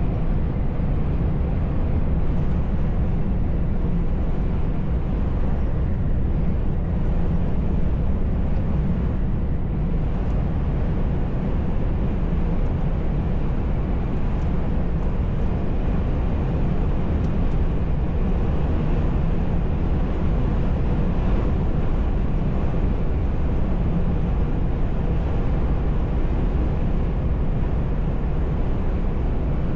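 Steady drone of a heavy truck's engine and road noise, heard from inside the cab while driving.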